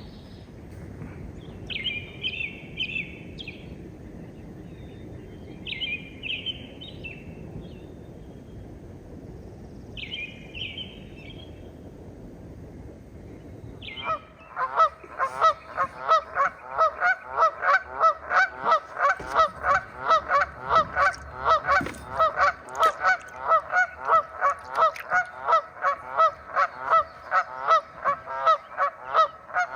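Birds calling with loud honking calls repeated very regularly, two or three a second, starting about halfway through and carrying on. Before that, three short, higher bird calls come over a low steady background noise.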